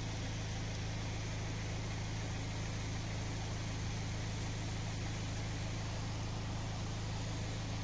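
Steady low drone of a vehicle's engine running, with an unchanging low hum and a faint hiss above it.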